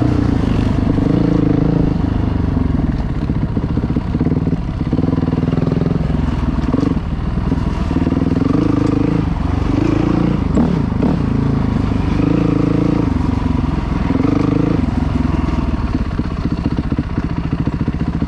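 Dirt bike engine running under load, revs rising and falling again and again as the throttle is worked, with a quick drop and pickup in pitch about halfway through.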